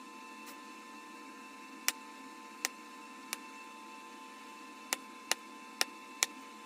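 Bottle glass being pressure-flaked: seven sharp, irregular clicks as flakes snap off the glass, over a steady background hum.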